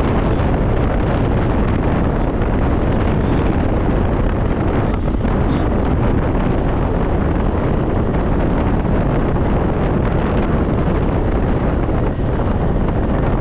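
Steady wind noise rushing over the microphone of a moving scooter.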